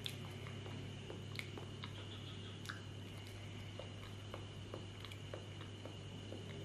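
A person chewing a mouthful of soft banana, with scattered small wet clicks from the mouth, over a steady low hum.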